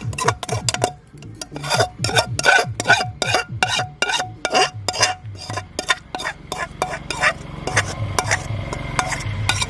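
Metal ladle scraping and clinking against a metal kadai, stirring or scooping gravy in quick strokes about three to four a second, each stroke ringing briefly; the strokes thin out and slow after about six seconds.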